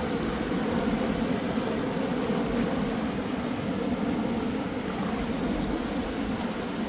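Steady wash of gentle sea waves, with a low, even hum underneath and a fluttering rumble at the bottom.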